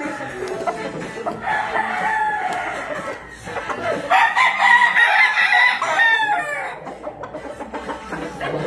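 Roosters crowing: two long crows, one starting about a second in and a louder one about four seconds in that trails off downward.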